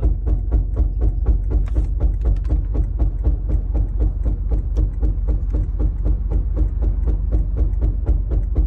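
Rhythmic knocking from a 2014 Lexus IS250 AWD, about four to five even knocks a second over a steady low drone. It is the fault noise the owner cannot place, with the driveshaft and its center bearing checked and found in good condition.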